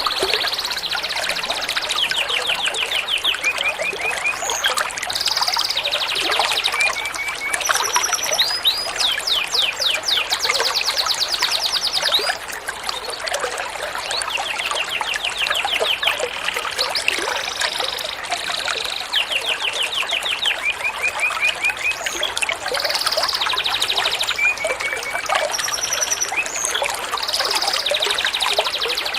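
Recorded songbird calls from several species repeat in a loop: fast trills, short high notes and little chirps, mixed over a steady trickle of running water. This is a masteran track for teaching caged songbirds new songs.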